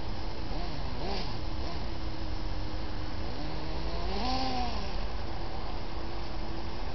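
Electric drive of a Kyosho Blizzard RC snow groomer whining steadily, its pitch rising and falling briefly twice as the model speeds up.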